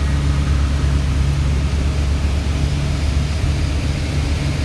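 Antique tractor engine running steadily with a low, rapid pulsing.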